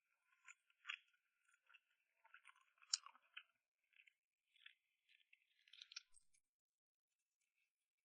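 Faint close-up eating sounds: a string of small clicks and scratchy noises, with the loudest about three seconds in.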